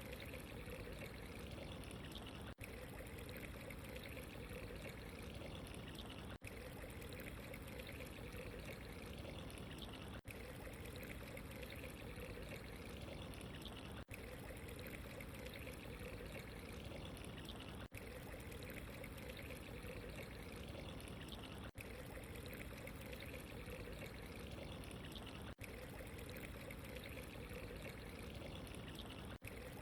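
Steady trickling, pouring water, faint and even, with a brief dip in the sound about every four seconds where a short recording loops.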